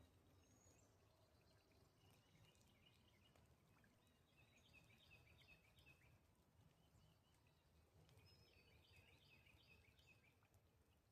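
A bird singing faintly: three runs of quick repeated high chirps, about two, five and nine seconds in, over a very quiet lakeside background with a low rumble.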